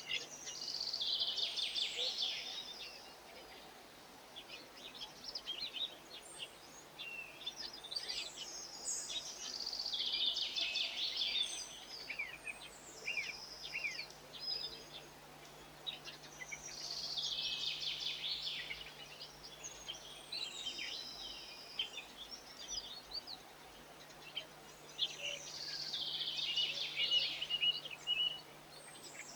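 A songbird singing the same short, high phrase four times, about once every eight seconds, with scattered chirps between the phrases.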